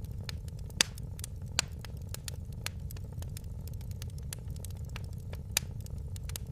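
Fireplace fire crackling: a steady low rumble under many irregular sharp pops and snaps. Louder pops come about a second in, again soon after, and near the end.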